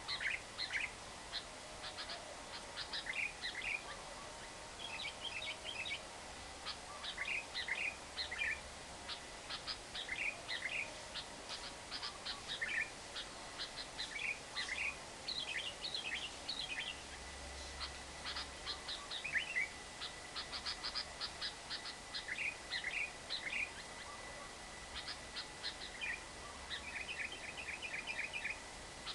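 Lovebird chattering in repeated bursts of short, shrill chirps, the fast chatter ('ngekek') used as a lure call to set other lovebirds singing. It runs into a quicker continuous trill near the end, over a steady background hiss.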